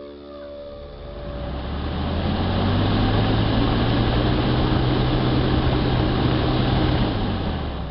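Electric cooling fan soft-starting: it begins with a humming whine, then the motor and blade rush build smoothly over about two and a half seconds to a steady full-speed run as the controller ramps its power from 20% to 100%. Near the end it switches off and winds down.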